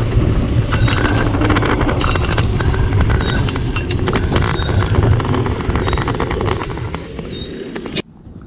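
Riding a bicycle over a rough forest track: a heavy wind rumble on the microphone mixed with constant rattling and clatter from the bike. It fades slightly, then cuts off abruptly near the end.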